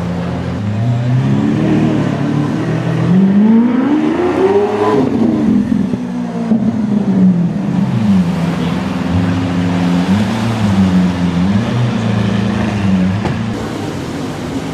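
A car engine revving up and down several times. The biggest climb in pitch comes about a third of the way in, then it falls back, followed by shorter blips.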